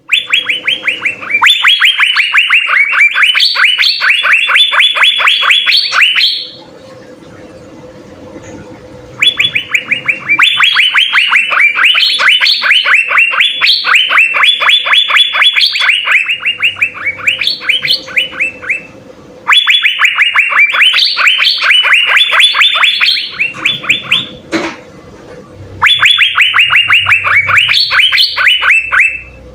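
Asian fairy-bluebird (cucak biru) singing in long bouts of rapid, repeated sharp notes, with a few higher notes near the end of each bout. Four bouts are broken by short pauses, with a faint steady hum in the gaps.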